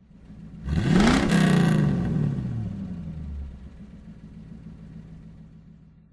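A car engine revs hard, its pitch climbing steeply about a second in, then easing off as the sound falls in pitch and fades away over the next few seconds.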